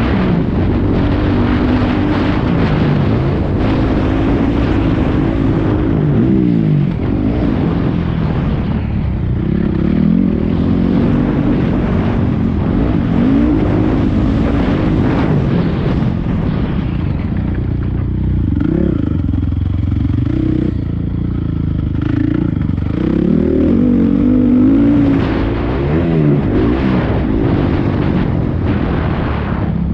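450cc four-stroke motocross bike engine being ridden hard round a track, revving up and dropping back again and again as it shifts gears and rolls off for corners and jumps.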